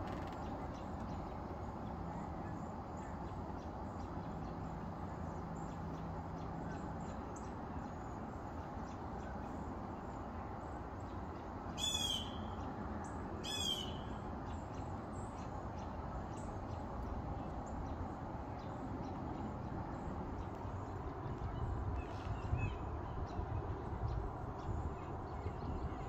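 Steady outdoor background noise with two short, high bird calls, each sweeping downward, about a second and a half apart near the middle.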